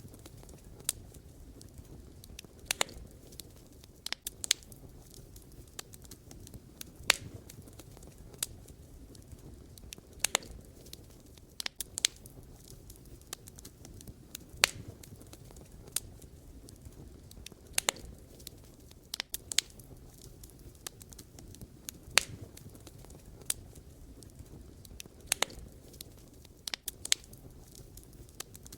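Campfire of burning firewood crackling: irregular sharp pops and snaps, a few every second, over a low steady rushing of the flames.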